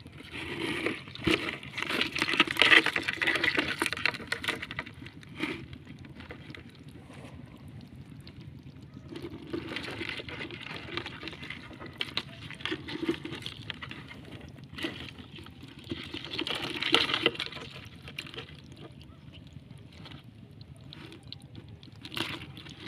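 Water splashing and sloshing in bursts, with small clicks and knocks; the loudest splashing comes over the first few seconds and again about two-thirds of the way in.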